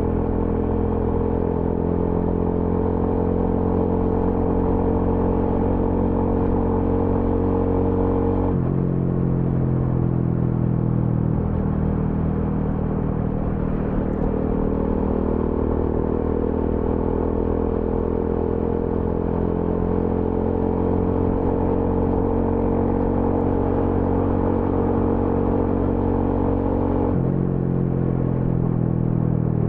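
TVS Apache RTR 200 4V single-cylinder engine and exhaust running under way. Its pitch drops suddenly about a third of the way in and again near the end, and rises and falls slowly in between.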